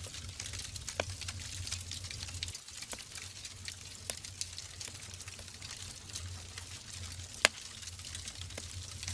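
Logs burning in a wood fireplace: a steady hiss with a low rumble of flame, broken by irregular crackles and small pops. One sharp, loud pop comes about seven and a half seconds in.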